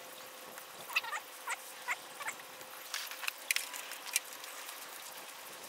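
Small birds chirping outdoors: a few short chirps that fall in pitch about a second in, then a few sharp high clicks around the middle, over a faint steady hiss.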